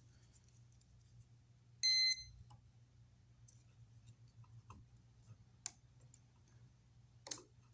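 One short electronic beep of about half a second, about two seconds in, from a voltage tester used to check that the outlet is dead, followed by scattered faint clicks of handling.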